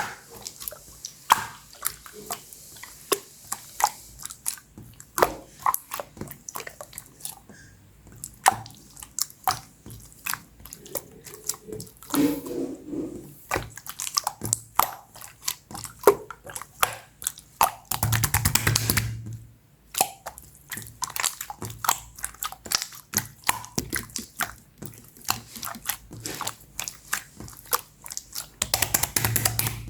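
Clear slime being squished and stretched by hand, giving a steady run of wet sticky clicks and pops. It breaks into denser crackling twice: about two thirds of the way in, and again just before the end.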